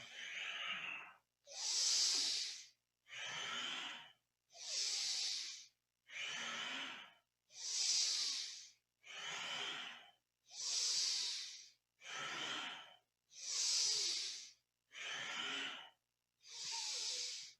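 Deep, powerful breathing through the nose in time with cat-cow spinal flexes. The breath sounds come one every second and a half or so, about twelve in all, alternating stronger and softer as inhales and exhales follow each other.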